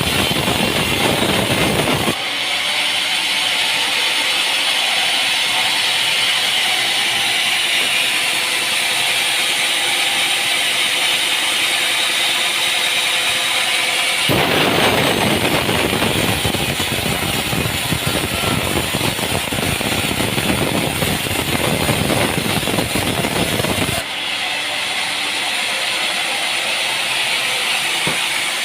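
Sawmill machinery running loud and continuous. The sound shifts abruptly about two, fourteen and twenty-four seconds in, alternating between a high hissing whine and a fuller, deeper mechanical noise.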